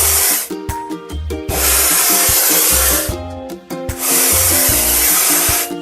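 Cartoon spray-paint sound effect: aerosol hissing in three long bursts of about a second and a half each, over background music.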